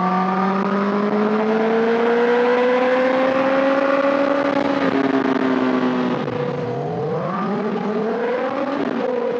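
Honda CBR1000RR Fireblade's inline-four engine pulling under steady throttle, its pitch climbing slowly, then easing off about five seconds in. Toward the end the pitch wavers up and down as the throttle changes. Wind rush runs underneath.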